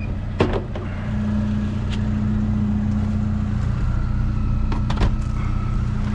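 Vehicle engine running steadily with a low, even hum, with a few sharp knocks about half a second in and again around five seconds in.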